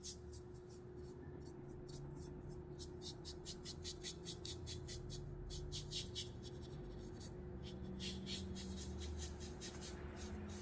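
A paintbrush stroking acrylic paint across the painting surface in quick, repeated scratchy strokes, about three a second with short pauses, over a faint steady hum.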